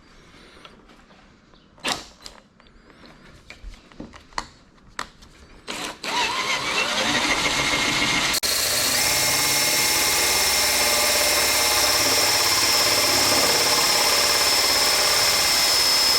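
A few light clicks and taps, then about six seconds in a cordless drill spins up with a rising whine and runs steadily under load, boring through a carbon fibre hood.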